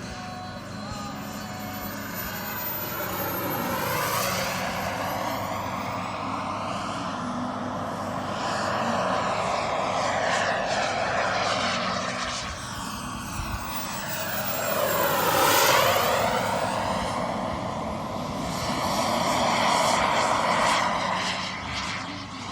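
Radio-controlled model jet flying past in repeated passes, a high whine over a rushing noise that swells and fades. It comes closest about 4 seconds in and again, loudest, about 15 seconds in, its pitch dropping as it goes by.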